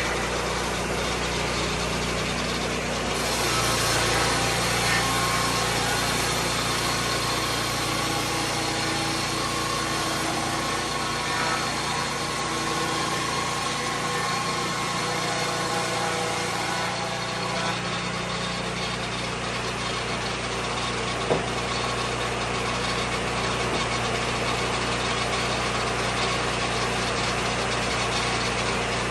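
An engine running steadily at an even idle-like speed, with one sharp click about three-quarters of the way through.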